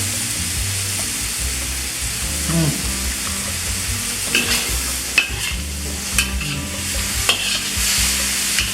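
Chicken and vegetables sizzling in oil in a pan while being stir-fried, with a utensil clicking and scraping against the pan several times.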